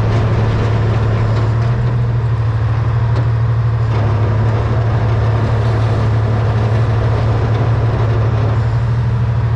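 Diesel engine of a 1978 Hein-Werner 25-ton excavator running steadily with a deep, even drone while the machine digs.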